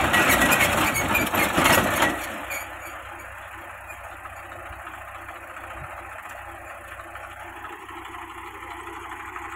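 Diesel engines of heavy vehicles running: a loud, rough stretch for about the first two seconds, then the engines idling steadily.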